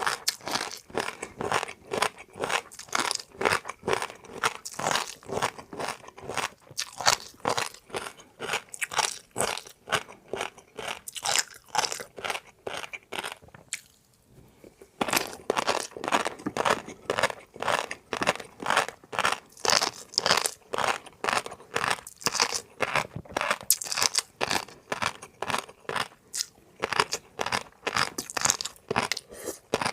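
Close-miked chewing of crunchy food, a steady rhythm of about three crunching chews a second, with a short pause about halfway.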